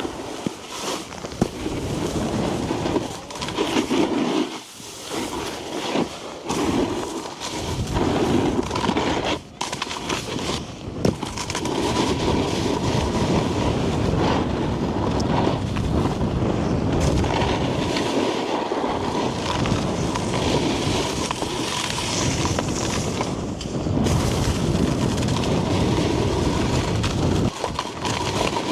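Snowboard base and edges scraping and hissing over packed snow while riding. The sound is choppy and broken in the first several seconds, then runs continuously from about twelve seconds in.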